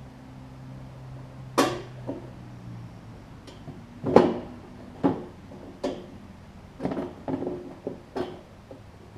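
Irregular sharp knocks and clatters, about seven in all, as the belt cover of a Snapper rear-engine rider mower is pried and worked loose by hand; the loudest comes about four seconds in.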